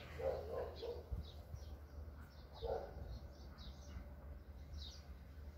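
Small birds chirping faintly: short high calls scattered throughout. Two soft, lower sounds come near the start and about halfway through.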